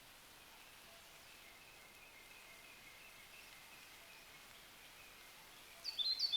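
Quiet outdoor ambience with faint distant bird chirping. Near the end a bird calls close by: a quick run of sharp, high chirps.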